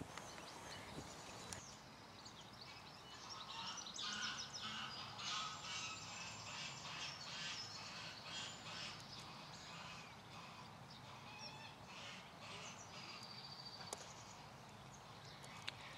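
Faint wild birds calling, a flurry of short high chirps and calls that is busiest in the first half, with a thin held note later on.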